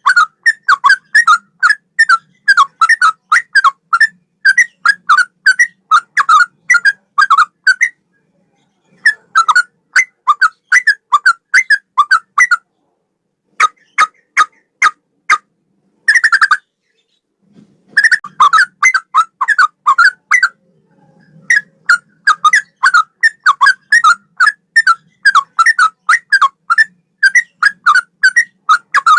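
Yellow-vented bulbul (trucukan) singing loud, rapid runs of short whistled notes in the style of a straw-headed bulbul's song, in phrases broken by brief pauses.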